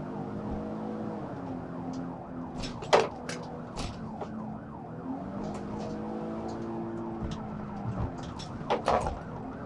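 Police car siren wailing over the patrol car's engine and road noise during a high-speed pursuit. Short sharp clicks come about 3 seconds in and again near the end.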